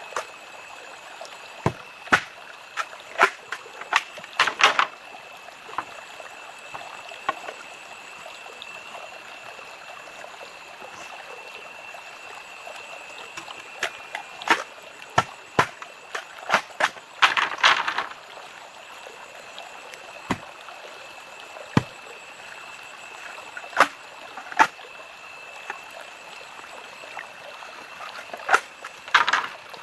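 Irregular sharp knocks and clicks, with a few short rustling clatters, over a steady background of running water and a constant high tone.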